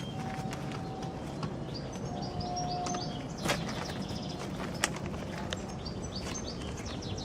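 Steady low background rumble with small birds chirping in quick high notes, and a couple of sharp clicks.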